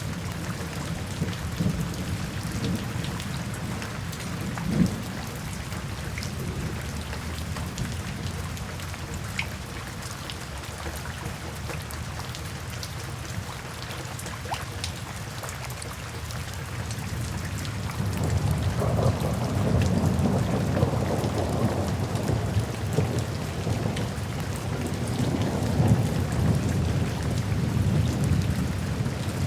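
Steady rain with fine drop patter. A low rumble of thunder swells about two-thirds of the way in and rolls on to the end.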